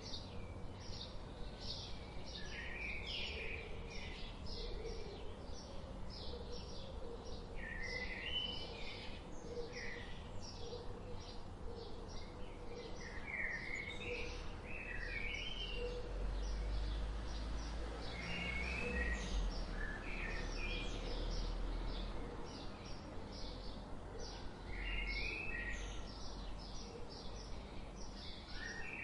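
Forest birdsong: several birds chirping and singing in quick, short repeated notes and warbled phrases, over a steady low background rumble that swells for a few seconds in the middle.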